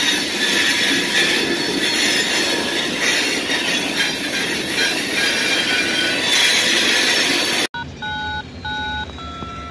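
Freight train hopper cars rolling past close by, steel wheels rumbling and squealing on the rails. Near the end it cuts off abruptly, replaced by a railroad crossing's bell sounding in short repeated tones over a low rumble.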